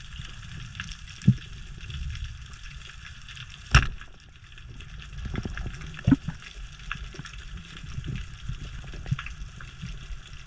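Underwater ambience: scattered crackling clicks over a low rumble, with one sharp, loud knock a little under four seconds in.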